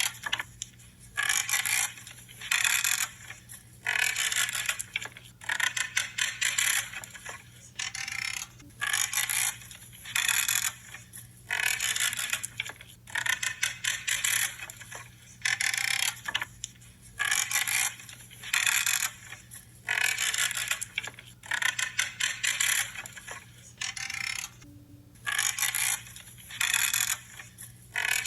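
Pruning shears cutting through branches, a repeated crunching, creaking snip roughly once or twice a second with short pauses between cuts.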